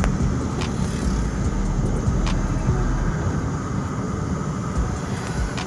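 Steady low rumble of a car's engine and road noise heard from inside the moving car, with a few light ticks.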